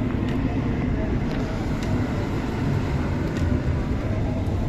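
Car on the move: a steady low rumble of engine and road noise, with faint ticks about every second and a half.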